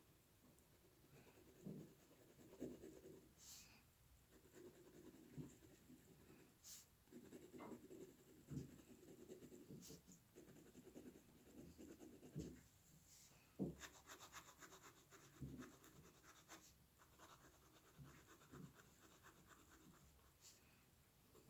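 Faint scratching of a drawing tool on paper, in irregular short strokes, with a run of quick back-and-forth strokes about two-thirds of the way through.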